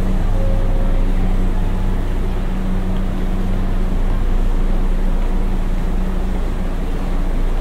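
A Hankyu electric train stopped at the platform, its onboard equipment humming steadily, with a deep hum under the noise of the station. The hum stays level throughout.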